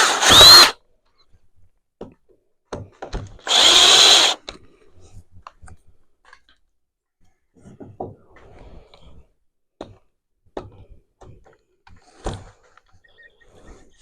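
Power drill running in two short bursts of about a second each, one at the start and another about three and a half seconds in, followed by scattered light knocks and clicks.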